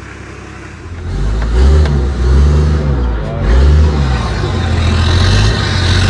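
HZJ75 Land Cruiser's turbocharged 1HZ 4.2-litre inline-six diesel running steadily, then revved up and down several times from about a second in.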